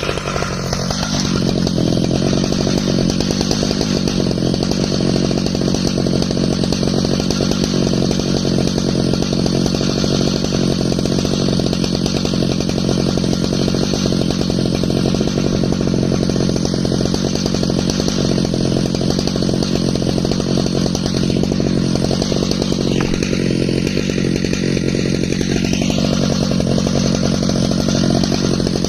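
Stihl MS 881 two-stroke chainsaw running at high revs under load, ripping along an ash log in an Alaskan chainsaw mill. The engine pitch climbs in the first second, then holds steady, with a brief dip and recovery about three-quarters of the way through.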